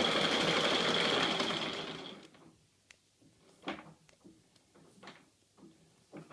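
E1N metal lathe running with a steady high whine, then winding down and stopping about two seconds in. A few light knocks and clicks follow.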